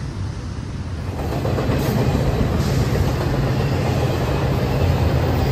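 Train passing on the rails: a steady low rumble of wheels and cars that grows louder about a second in and then holds.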